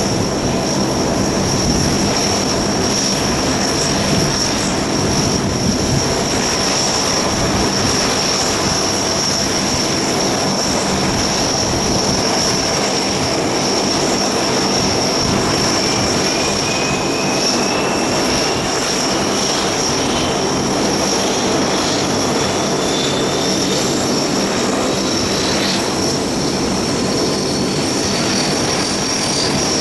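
Lockheed P-3C Orion's four Allison T56 turboprop engines running loud and steady, with a strong high whine over the propeller roar. A second whine rises steadily in pitch through the second half.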